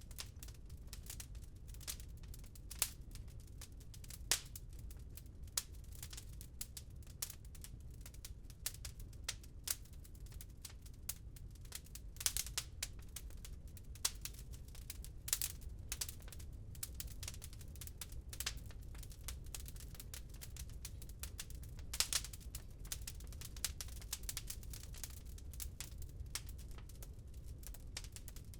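Wood fire crackling in a fireplace: irregular sharp pops and snaps, several louder than the rest, over a steady low rumble.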